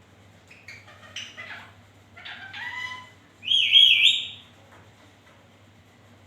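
Indian ringneck parakeet vocalizing: a string of short, wavering, talk-like sounds, then a loud shrill call about three and a half seconds in.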